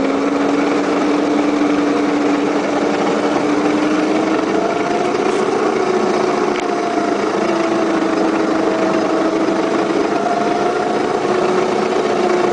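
Garden-scale model locomotive running, its electric motor and gearbox giving a steady whine whose pitch drifts slowly up and down as the train's speed changes.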